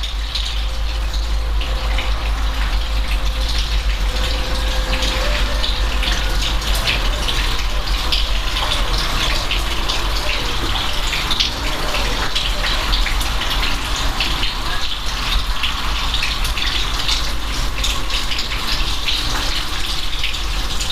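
Steady rain falling, a dense hiss full of separate sharp drop hits, over a constant low rumble.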